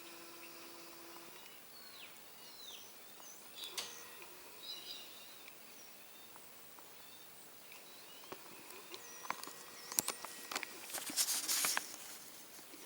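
Wild birds calling: scattered faint chirps and short gliding whistles, with a louder burst of calls and clicks about ten seconds in.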